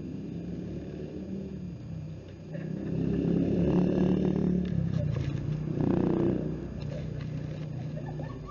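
A low engine hum of passing traffic that swells for a few seconds from about two and a half seconds in, then eases back.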